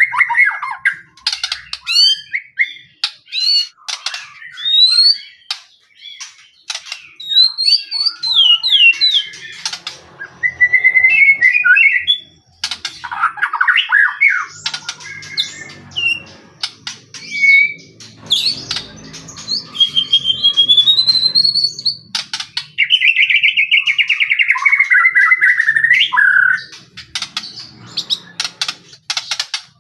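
White-rumped shama singing energetically, a varied run of whistled phrases mixed with harsh chattering and sharp clicking notes, with a long buzzy descending phrase near the end.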